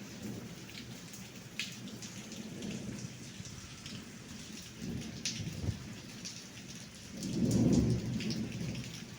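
Heavy rain falling steadily, with scattered drops tapping close by. A low rumble of thunder swells up about seven seconds in and is the loudest part.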